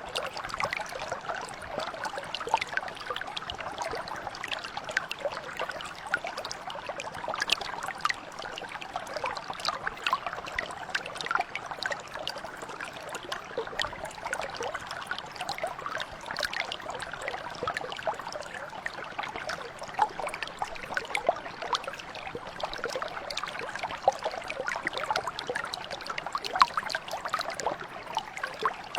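Mountain brook flowing over stones, a steady babble of water thick with small splashes and trickles.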